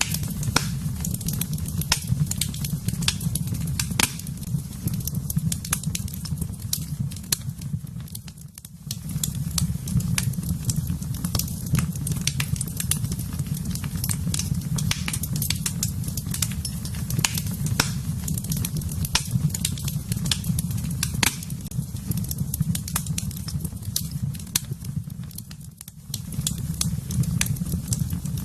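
Wood fire crackling in a fireplace, with frequent sharp pops over a steady low rumble. The rumble and overall level drop briefly about eight seconds in and again near the end.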